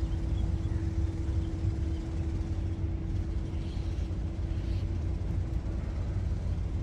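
Engine running steadily: a constant hum over a low rumble, with no change in speed.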